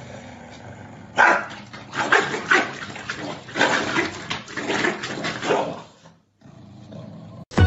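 An animal calling in a quick, irregular run of short, loud cries for about five seconds, which stop abruptly.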